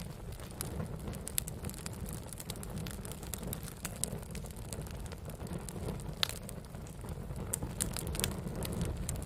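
Wood fire burning with a steady low rumble and irregular sharp pops and crackles, a few louder snaps about six and eight seconds in.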